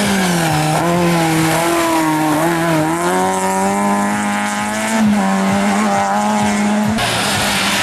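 Racing car engine running hard at high revs. Its pitch dips briefly, climbs slowly and holds, then drops near the end.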